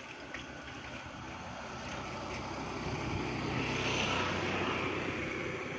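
An older-model EMU electric local train running along the track, a steady rumble that grows louder to a peak about four seconds in, then eases slightly.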